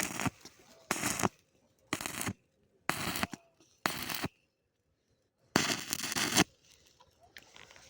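Electric arc welding done in short strikes: six crackling bursts about a second apart, the last one held for about a second.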